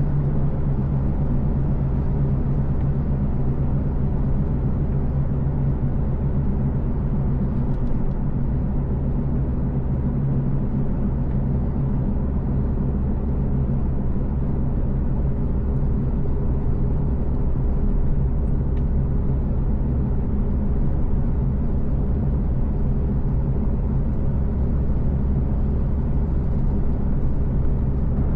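Car driving at a steady pace: a low, even rumble of engine and road noise with a steady hum.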